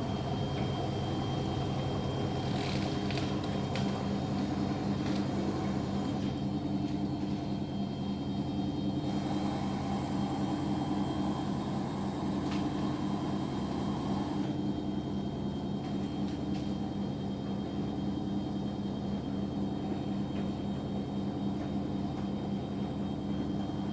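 Washing machine running with a steady motor hum and drum rumble, a tone swelling and fading about every second and a half as the drum turns. A few light clicks sound about 3 seconds in and again near the middle.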